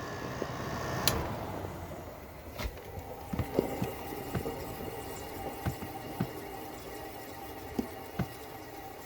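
Haier 5,000 BTU R-410A window air conditioner switched off with a click about a second in. The compressor hum stops and refrigerant hisses and gurgles through the lines as the pressures equalize, with scattered ticks while the fan spins down.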